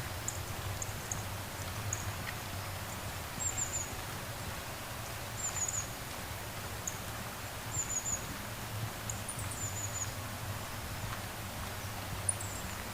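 High, thin bird calls: short chirps and brief falling trills repeated every second or two, over a steady low background rumble.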